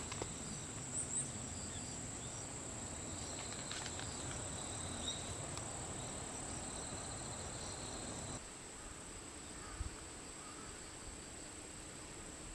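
Insects chirring steadily as one continuous high-pitched note. A faint low background rumble drops away abruptly about two-thirds of the way through.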